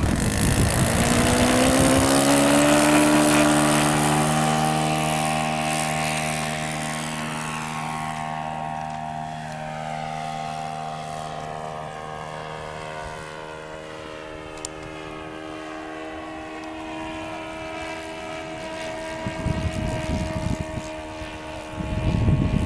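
Model airplane's engine and propeller rising in pitch over the first two seconds as it is throttled up, then running at a steady pitch while growing fainter as the plane flies off. A low rumble comes in near the end.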